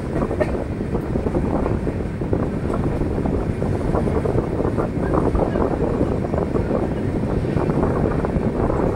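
Indian Railways express passenger train running, a steady rumbling noise with faint irregular clatter, and wind buffeting the microphone.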